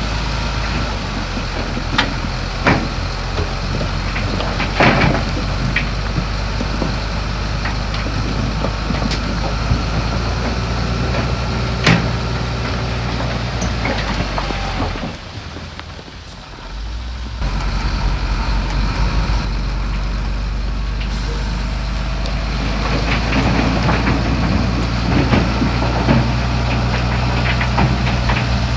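Heavy diesel earthmoving machinery running steadily at a low drone, with scattered sharp clanks and knocks. The sound falls away for a couple of seconds about halfway through, then returns.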